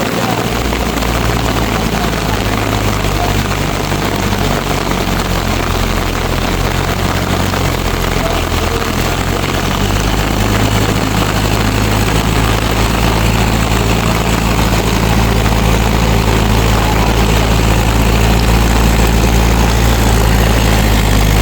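A Mahindra tractor's diesel engine runs steadily and loudly. Its note shifts about ten seconds in and builds slightly toward the end.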